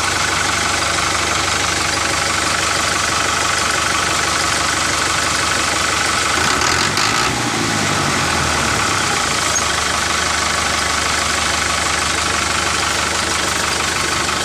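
A motor running steadily, a continuous mechanical whir, with a brief change in its sound about seven seconds in.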